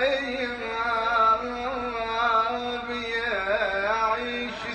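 Male voice singing an Arabic nasheed in a drawn-out, ornamented melodic line, with the pitch wavering and sliding between held notes.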